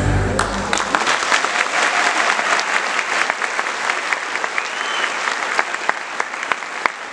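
Theatre audience clapping after a recorded dance track cuts off within the first second. The applause is full and steady, then eases off slightly toward the end.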